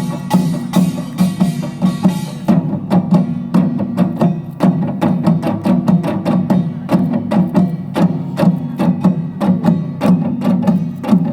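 Utdari samul nori ensemble playing a fast, steady rhythm on kkwaenggwari small gong, jing, janggu hourglass drum and buk barrel drum. About two and a half seconds in, the bright metallic ringing thins out, leaving sharper separate strikes over the drums.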